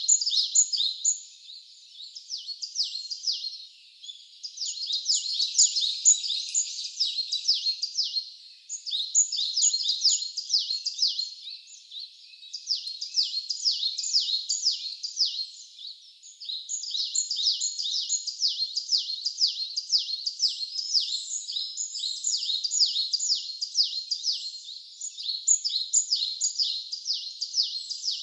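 A bird sings phrases of rapid, high, down-slurred chirps, each phrase a few seconds long, repeated over and over with brief pauses.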